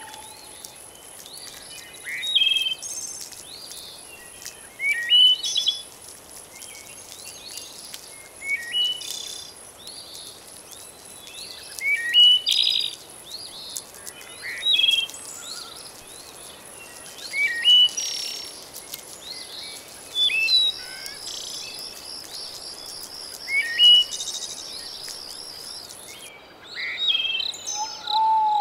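Recorded nature ambience: a songbird repeats short chirping phrases about every three seconds over a soft steady background hiss. A thin, high, continuous insect buzz runs underneath and cuts out near the end, and a rapid pulsing insect trill joins for several seconds in the later part.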